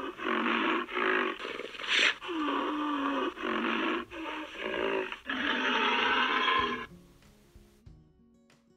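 Rhinoceros calling: a run of rough, throaty grunts and bellows with short breaks between them, one drawn out into a moan near the middle, stopping about seven seconds in.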